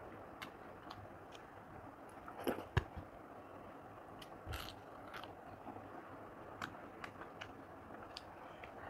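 Close-miked eating: quiet chewing with a few sharp crunches of fried papad being broken and bitten, the loudest about two and a half seconds in.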